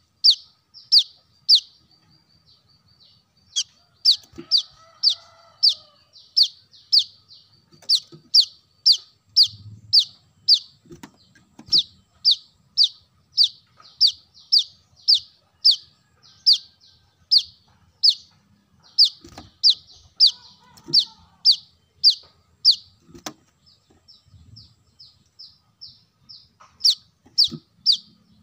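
Brown-throated sunbird (kolibri kelapa) calling: a long series of sharp, high chip notes, about two a second, with a short pause about two seconds in and softer notes for a few seconds near the end.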